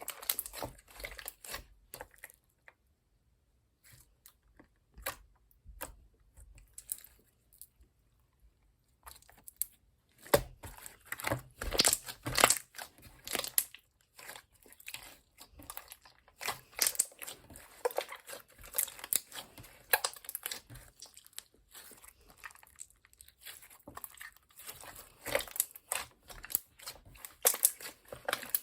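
Clear slime being squished, stretched and pressed by hand, giving a dense run of small wet clicks, pops and crackles, with a couple of short pauses early on the first few seconds.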